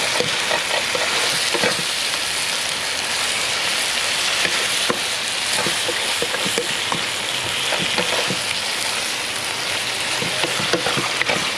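Fish frying and sizzling in a hot pan as it is stirred, a steady hiss broken by many small scrapes and taps of the stirring utensil.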